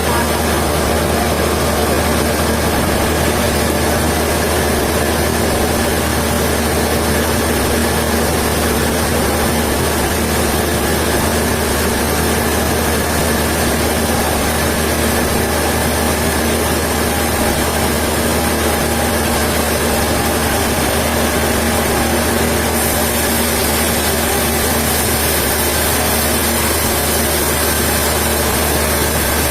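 Engine running steadily at an even pitch, with a constant low hum and no revving or cutting load.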